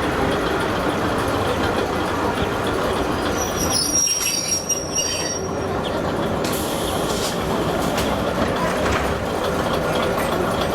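Kominato Railway train running along the track with a steady rolling rumble, its wheels squealing on the rails for a couple of seconds near the middle.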